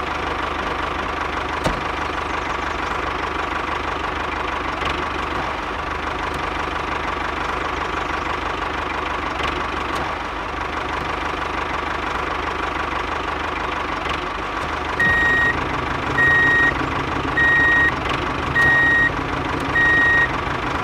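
Engine-like running sound of a miniature tractor, idling steadily with a steady whine. About three-quarters of the way through, a reversing alarm starts beeping at a steady pace, about once every 1.2 seconds, louder than the engine: five beeps.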